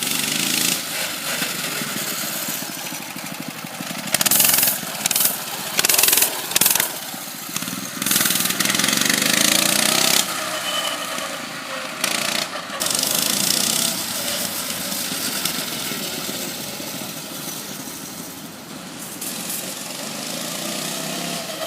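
Coleman CT200U mini bike's small single-cylinder engine running as the bike is ridden, its pitch rising and falling with the throttle. Several loud, noisy bursts come between about four and seven seconds in.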